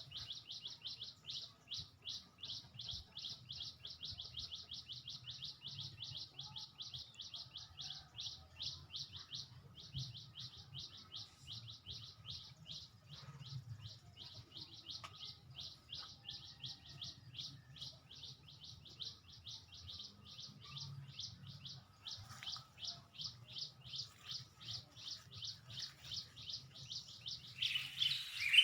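A long trill of rapid, evenly repeated high chirps from a bird, breaking off briefly twice. Near the end a much louder burst of noise and chirping cuts in.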